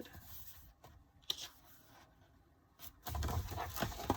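Glossy pages of an album photobook being turned and handled: a short tap about a second in, then a longer paper rustle near the end that ends in a sharp tap.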